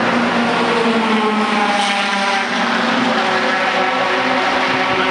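Car engine idling steadily, an even drone whose pitch sags slightly about two seconds in.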